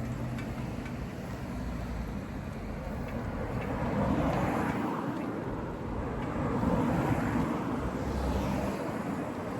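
Road traffic: a steady outdoor wash of vehicle noise that swells twice, as if vehicles are passing.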